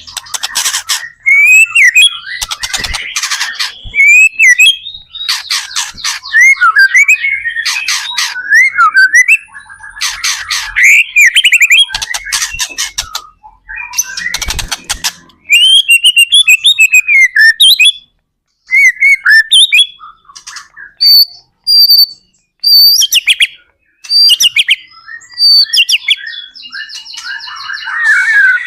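White-rumped shama (murai batu) singing a loud, varied song: quick whistled phrases alternating with harsh, buzzing rattles, broken by a few short pauses.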